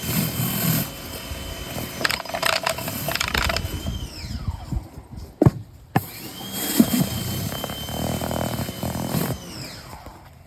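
Pressure washer with a surface-cleaner attachment, its steady high whine winding down about four seconds in, two sharp clicks, then running up again and winding down once more near the end.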